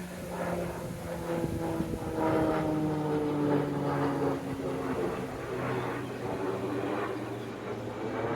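Propeller aircraft flying over, its engine drone sliding slowly down in pitch as it passes, with gusts of wind on the microphone.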